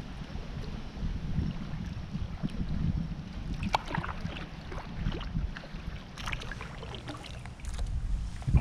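Wind buffeting the microphone over water lapping against a kayak hull, with scattered light clicks and small splashes, a cluster about four seconds in and more toward the end.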